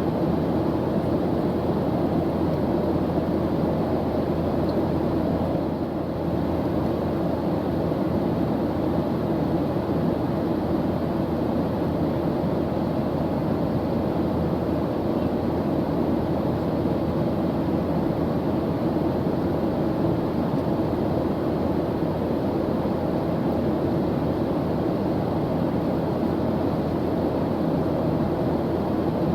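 Airplane engine noise: an even, deep rushing drone that holds steady throughout, with a slight dip in level about six seconds in.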